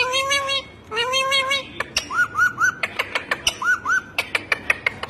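Animal calls: two long, drawn-out pitched cries, then short high arched calls in quick groups of two or three mixed with rapid sharp ticks.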